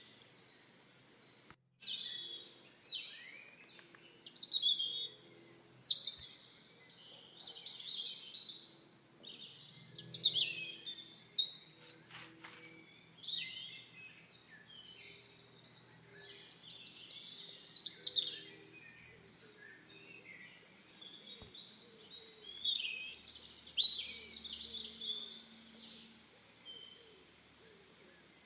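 Several birds chirping and calling: quick, high, sweeping notes in irregular bouts of a second or two, with short pauses between.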